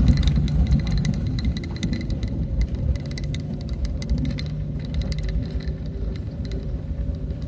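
Vehicle driving along a road: a steady low engine and road rumble with many short rattling clicks and knocks throughout.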